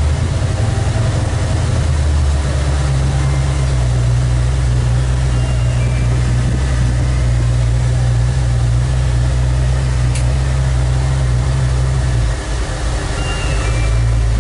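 The 383 stroker small-block V8 of a 1956 Chevrolet 210, exhaling through side pipes, drones steadily while the car is driven, heard from inside the cabin. About twelve seconds in the engine note drops for a moment, then picks up again; there is a single short click shortly before.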